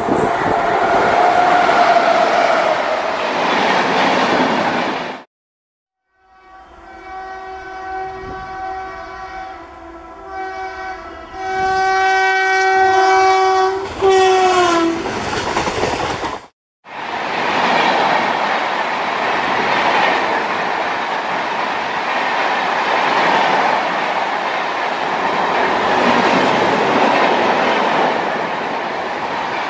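Indian Railways electric-locomotive-hauled express trains passing at speed, a steady rush with clickety-clack of the coach wheels. After about five seconds this gives way to an electric locomotive's air horn sounding in a series of blasts, short at first, then longer, the last one sagging in pitch as it ends, before the passing-train sound returns.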